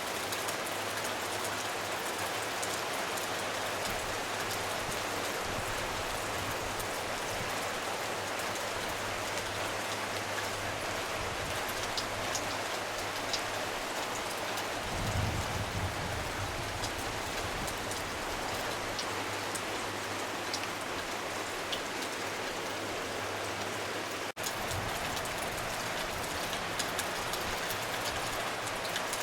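Steady rain falling, with scattered drops ticking close by and a brief low rumble about halfway through.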